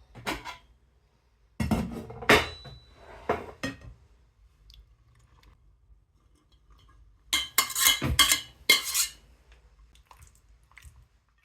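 Dishes and cutlery being handled, in three bursts of clinks and knocks; one clink rings briefly.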